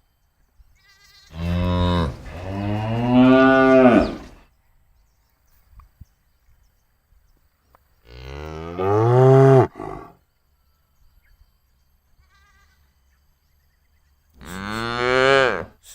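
Cattle mooing: three long moos, the first about three seconds long, the others shorter.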